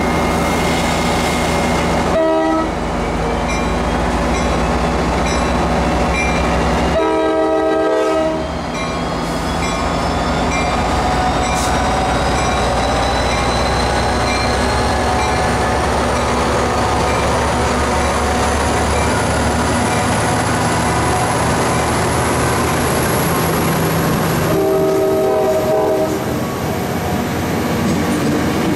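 Tri-Rail diesel commuter train pulling into the station: the locomotive's engine running and the wheels rolling on the rails. The horn sounds three times: a short blast about two seconds in, a longer one about seven seconds in and another near the end. A thin high whine rises steadily from about ten seconds in.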